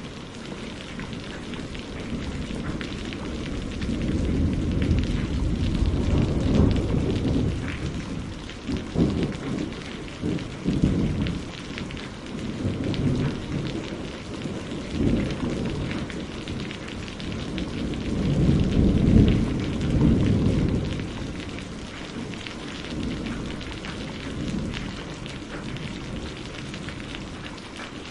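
Steady rain on a greenhouse roof, with low rolling thunder swelling and fading several times; the heaviest rumble comes about two-thirds of the way through.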